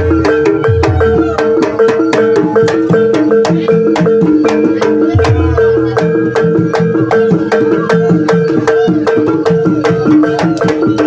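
Javanese ebeg gamelan music: a repeating melody on metal percussion over a fast, even beat of struck accents, about four a second, with hand-drum (kendang) strokes.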